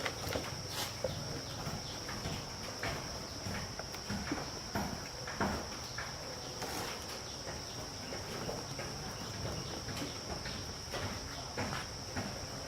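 Insects calling in one steady high-pitched drone, with scattered light knocks and rustles.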